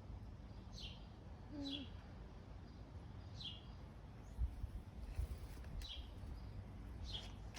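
A single songbird giving a short, falling chirp over and over, about once every second or so, with a few low bumps of wind or handling noise near the middle.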